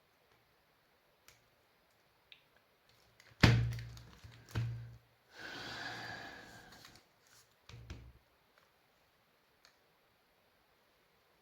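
Two heavy thunks about a second apart, then a short rushing hiss lasting about a second and a half and one more thud, among scattered light clicks: objects being handled and set down on a workbench.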